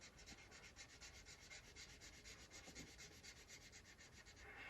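Faint rapid back-and-forth scratching of a brown colouring tool on paper, about eight strokes a second, thinning out near the end: a drawing being coloured in.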